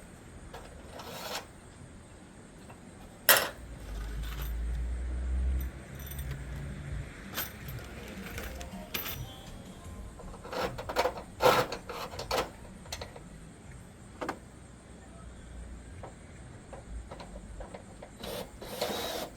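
Hand work on a metal gutter: scattered sharp clicks and knocks with scraping and rubbing as gutter spikes and screws are handled, with a low rumble a few seconds in and a cluster of knocks past the middle.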